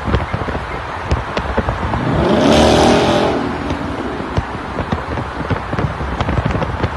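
Ford Mustang GT's V8 exhaust crackling and burbling in a tunnel, with the engine note swelling up and back down about two to three and a half seconds in.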